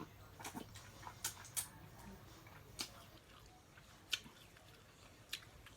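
Quiet eating of snow crab legs: a handful of short soft clicks and smacks, spaced a second or so apart.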